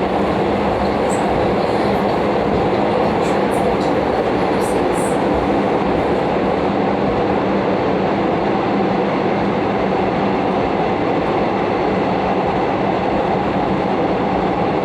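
Gyeongchun Line commuter electric train running along the track, heard from inside the passenger car: a steady, loud rumble of wheels on rail with a steady hum underneath, and a few faint high squeaks in the first few seconds. The wheels have not been reprofiled, which the uploader says makes them thump heavily.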